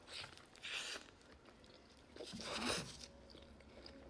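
Close-miked eating of a foil-wrapped burrito: three short noisy bursts of biting and wrapper rustling, the longest about two and a half seconds in.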